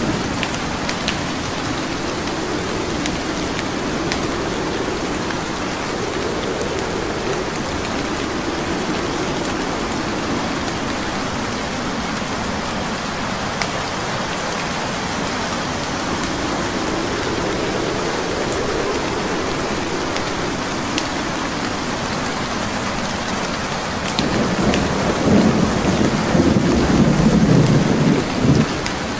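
Steady heavy rain with rolling thunder that swells and fades, growing louder for a few seconds near the end. Scattered crackles and pops of burning wood logs in a fireplace come through over the rain.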